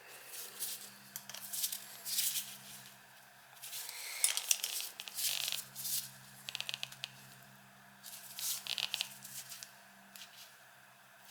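Irregular scraping, rustling and clicking of hands and tools working on an oil burner, including a quick run of clicks about halfway through, over a faint steady low hum.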